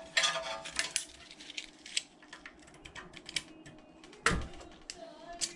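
Small metal hand tools clicking and clinking against the rocker arms of a Predator 212 engine's cylinder head while the valve lash is checked and adjusted: scattered sharp clicks, with one louder knock about four seconds in.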